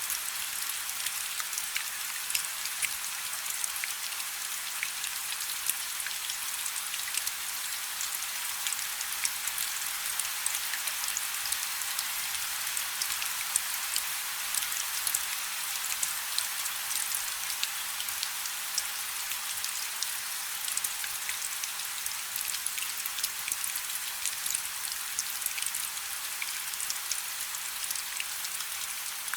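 Light rain falling steadily: an even hiss dotted with many small, sharp ticks of drops striking a surface.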